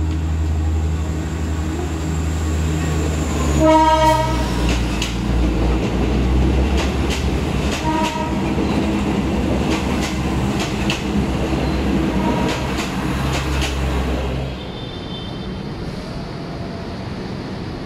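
Diesel commuter train running into a station, its engine droning low. It sounds one short horn blast about four seconds in, then its wheels click over the rail joints as the cars roll by. Near the end the sound drops to a quieter, distant background.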